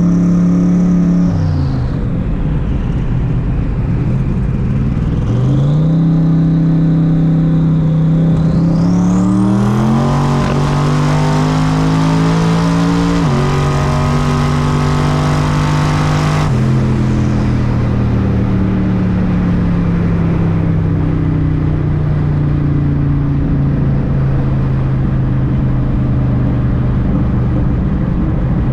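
Twin-turbo Ford Mustang SVT Cobra V8 making a full-throttle pull: the engine climbs steeply in pitch with a rising turbo whistle, drops pitch at one gear change, then goes off the throttle about halfway through and coasts down with slowly falling revs. The driver afterwards says he noticed a slight miss mid-pull and suspects the spark plugs.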